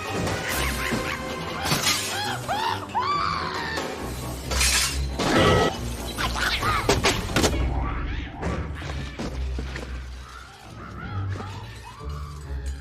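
Monkeys shrieking amid repeated crashes of smashing glass and crockery, over background music. The crashes come thickest in the middle, around five to seven seconds in.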